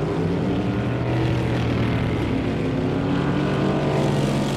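Drag racing car's engine running steadily at a low, even pitch, without any hard revving.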